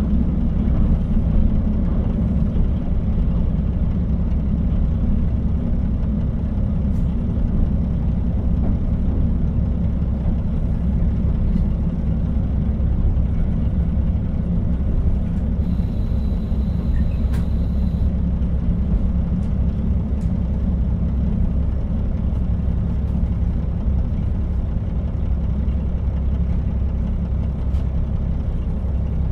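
KiHa 40 diesel railcar running along the line, a steady low rumble of engine and wheels on rail. A brief high tone sounds about sixteen seconds in.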